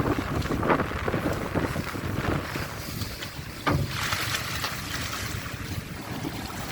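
Wind buffeting the microphone aboard a boat at sea, over a low rumble and the wash of water. A single sharp knock sounds about three and a half seconds in.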